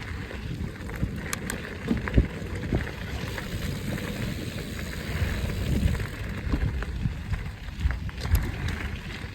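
Mountain bike riding over a dirt trail: a steady low rumble of tyres and wind, with scattered sharp clicks and knocks from the bike rattling over the ground.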